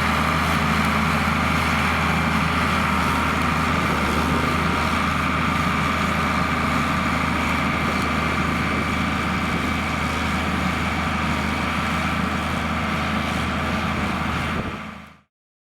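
John Deere 4850 tractor's six-cylinder diesel engine running steadily, with a steady high whine over the engine note. It fades out near the end.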